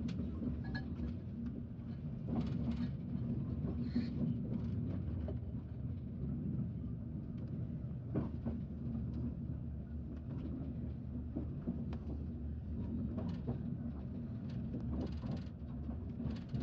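Class 390 Pendolino electric train heard from inside the carriage, rolling at low speed as it comes into a station: a steady low rumble with a faint hum and occasional light clicks from the track.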